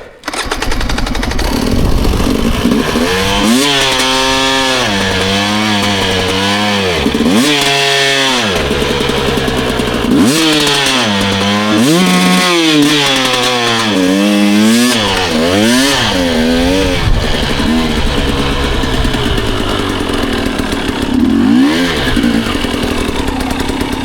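Dirt bike engine ridden on a motocross track, its pitch rising and falling over and over as the throttle is opened and shut through the jumps and whoops, over a steady rush of noise.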